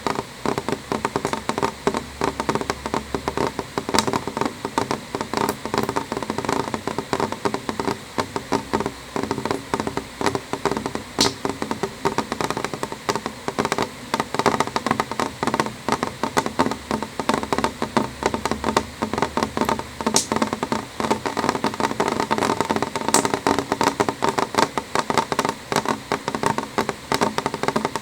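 Rain on a window: dense, irregular tapping of drops on the glass over a steady wash of rain, with a few sharper, louder drop hits scattered through.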